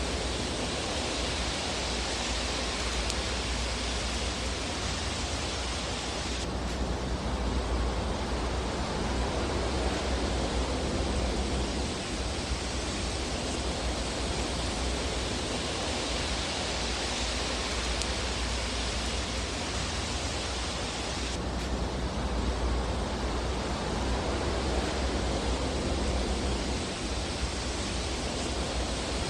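Fireplace fire giving a steady, even rushing hiss without distinct crackles. Its tone shifts slightly about six seconds in and again about twenty-one seconds in.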